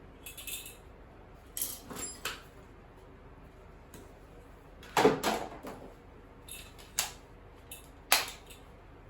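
Intermittent clinks and clatter of small hard parts being handled and set down during disassembly, with the loudest clatter about five seconds in and sharp knocks near seven and eight seconds.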